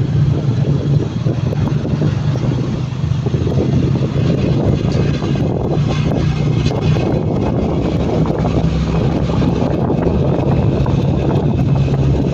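Motorcycle engine running at a steady speed on the move, with rushing road and wind noise.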